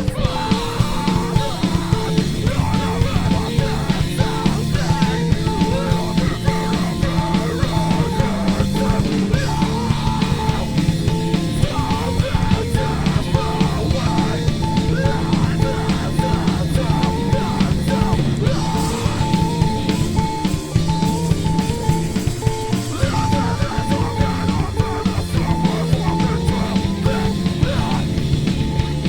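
Rock band playing live, with drum kit and electric guitars going steadily and a repeating high guitar note over it.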